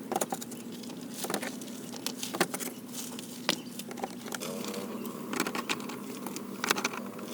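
Irregular sharp taps and clicks, a few much louder than the rest, over a steady low hum.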